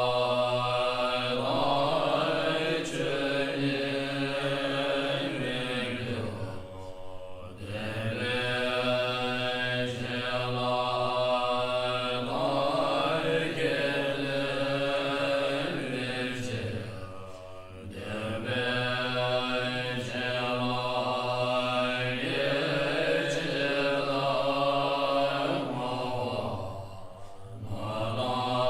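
Chanted mantra in long held phrases, with a short break about every ten seconds.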